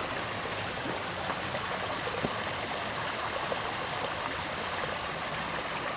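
Creek water flowing over rocks: a steady rushing.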